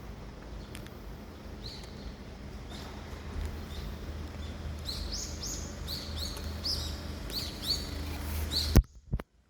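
Small birds chirping: a series of short, high chirps that come thicker in the second half, over a steady low background rumble. Near the end there is a sharp click, and the sound drops out.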